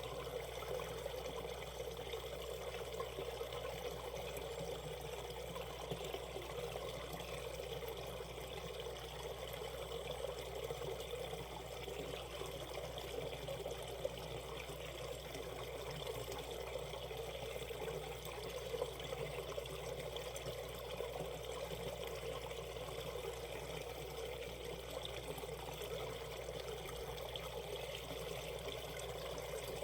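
Steady rushing and trickling of a shallow valley stream running over stones, with small irregular splashes.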